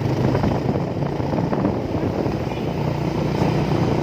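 A moving vehicle's steady engine and road noise.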